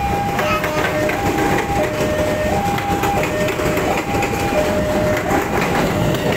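KRL Commuter Line electric train, a 205-series set, running past with a steady rumble and clatter of wheels on the rails. A level-crossing alarm sounds over it, a two-tone warning that alternates between a lower and a higher note about every two-thirds of a second.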